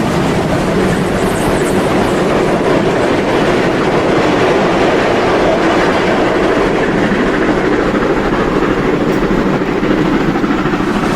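Märklin model freight train, a long string of coke wagons behind steam locomotives, rolling over the layout's track with a steady clatter of small wheels on rail.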